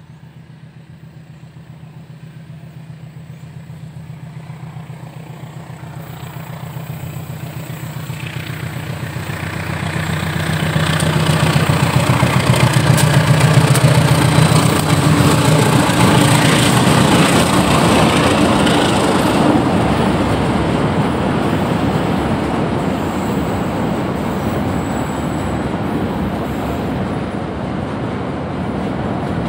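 Diesel-electric locomotive hauling a passenger train approaches with a steady engine drone that grows louder, passing about twelve to fifteen seconds in. The coaches then roll by with steady wheel-on-rail noise.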